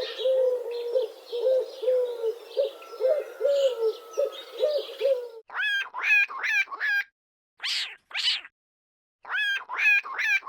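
Animal calls: a steady run of low hooting notes, about two or three a second, that ends abruptly. Then come groups of sharp, clipped higher calls in quick runs of four or five, with two harsher hissing calls between them.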